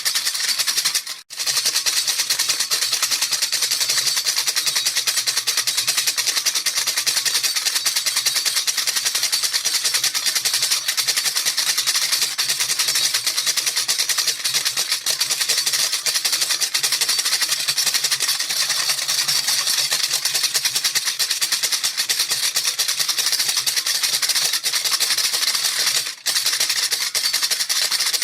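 A baby rattle shaken rapidly and continuously: a dense, hissy stream of rattling beads. It breaks off for an instant twice, about a second in and near the end.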